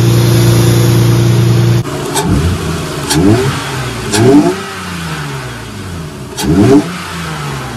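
Lexus GS300's 2JZ-GE inline-six breathing through an aftermarket cone-filter cold air intake, with the intake sucking air. First comes a steady loud drone heard right at the filter. Then there are four quick revs, each rising and falling in pitch.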